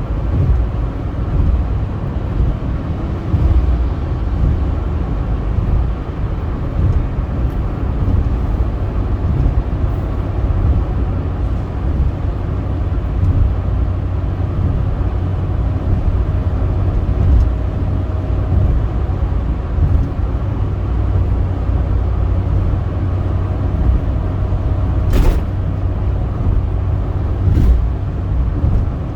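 Steady low rumble of a car driving on a highway: engine and road noise. A couple of short clicks come near the end.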